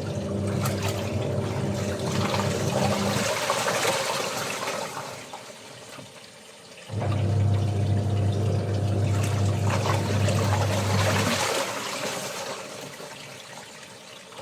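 Washing machine agitating: the motor hums for about four and a half seconds while water swishes in the drum, then stops and the water settles, and the motor starts again about seven seconds in. The motor stops again near the end.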